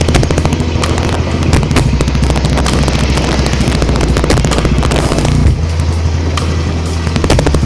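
Motorcycle engine running while riding, under heavy wind buffeting and crackle on the microphone.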